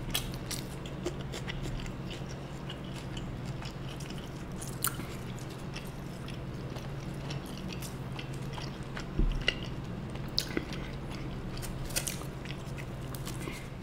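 A man chewing a mouthful of rajma (kidney bean curry) and rice close to the microphone: many small wet mouth clicks, with a few louder ones about nine to ten seconds in.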